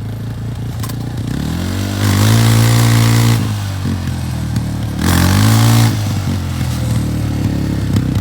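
Yamaha's engine running under load, revved up twice, each time rising in pitch and getting louder for a second or so, as it pulls on a Polaris quad's engine to rip it out.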